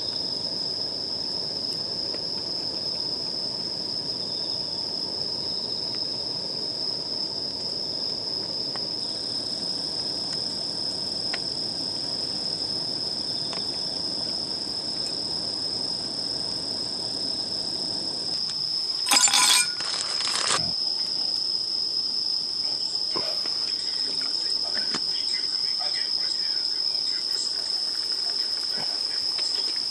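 Insects trilling outdoors in one steady, unbroken high note. About 19 seconds in there is a brief loud clatter with a metallic ring, followed by a smaller knock a second later.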